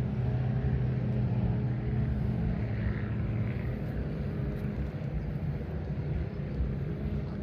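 An engine running steadily, a low drone that is strongest at first and eases off after a couple of seconds.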